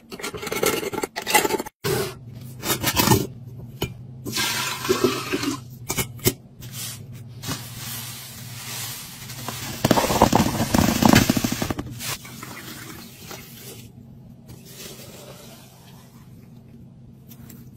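Kitchen restocking sounds: food packaging and containers being handled, with knocks and scrapes, and a louder rushing sound for about two seconds near the middle. A steady low hum runs underneath.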